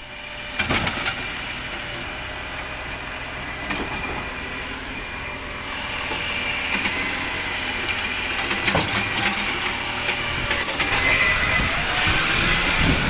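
Kerbside organics rubbish truck running, with a steady high whine over the engine and clusters of sharp knocks about a second in and again around nine seconds; it grows louder through the second half.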